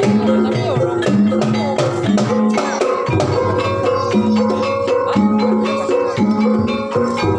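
Banyumasan gamelan music for an ebeg horse dance: held metallophone notes over quick hand-drum strokes.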